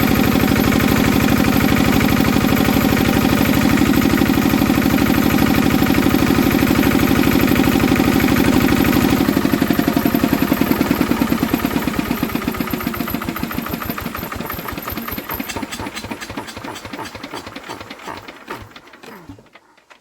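Enfield SV1 single-cylinder diesel stationary engine running steadily at its fast governed speed of about 1800 rpm, then shut off about nine seconds in: the firing beats slow and fade as it runs down to a stop near the end.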